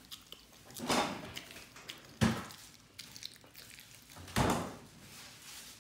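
Welsh corgi licking its lips and the feeding mat after eating tuna: three separate loud licks.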